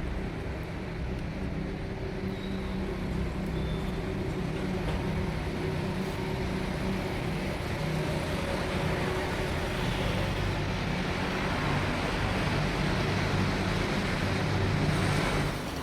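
Road traffic with a vehicle engine running close by: a steady low engine hum under a noisy rush that grows louder over the last few seconds, then drops off sharply just before the end.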